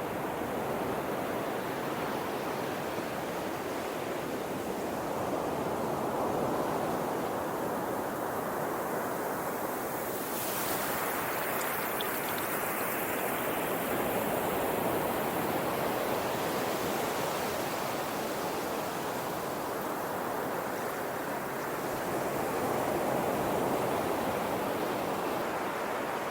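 Steady rushing of water that swells and eases slowly every several seconds, with a brief brighter hiss about ten seconds in.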